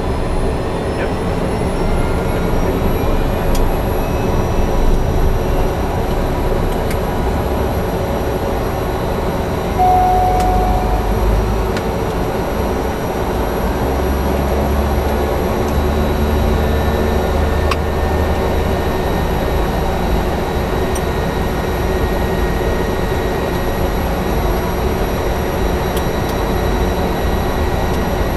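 Cessna Grand Caravan EX's single turboprop engine running steadily, heard from inside the cockpit as a low rumble under a constant high whine. A short beep sounds once, about ten seconds in.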